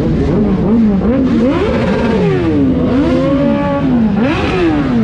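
Several motorcycle engines revving at once, their pitches rising and falling again and again and overlapping.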